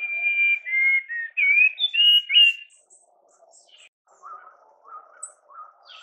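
A songbird sings a loud phrase of clear whistled notes that glide up and down, lasting under three seconds. About a second after it stops, a quieter bird starts repeating short notes about twice a second.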